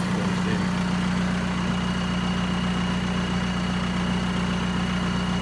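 Volkswagen engine idling steadily as it warms up.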